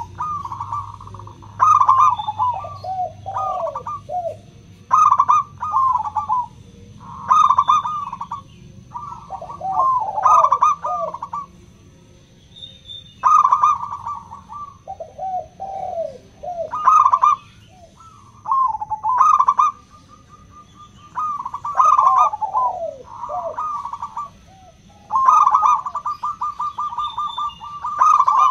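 Zebra dove (local perkutut) singing: bursts of quick, rippling coo notes, some phrases dropping in pitch at the end, repeated every one to three seconds with short pauses between.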